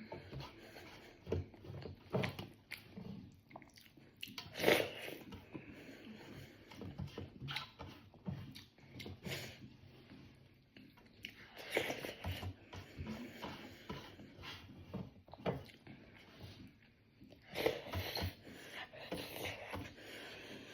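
A person chewing and biting a mouthful of rice with fried cauliflower, potato and egg, irregular smacks and clicks with a few louder bites.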